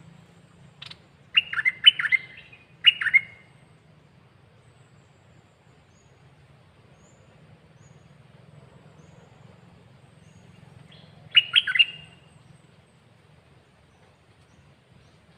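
Caged songbird singing short, quick phrases of chirping notes: a cluster between one and three seconds in, then a long pause and one more phrase about eleven seconds in.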